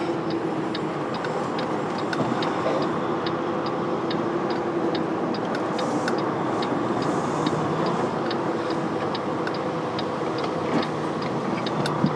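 Semi truck's diesel engine running at low speed, heard inside the cab, with a light regular ticking about twice a second.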